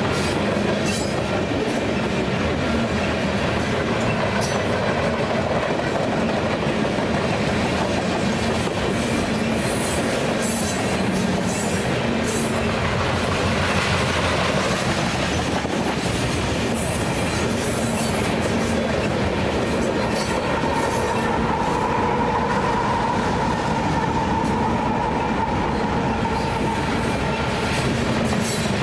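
Covered hopper cars of a freight train rolling past close by: a steady rumble of wheels on rail, with repeated clicks as the wheels cross rail joints. About two-thirds of the way through, a steady wheel squeal sets in and lasts until near the end.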